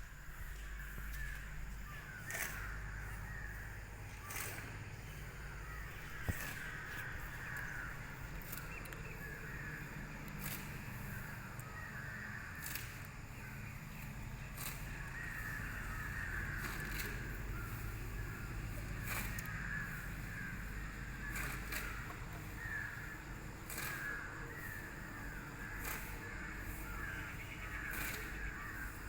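Birds calling continuously in a dense chatter, over a low steady rumble, with sharp clicks every second or two.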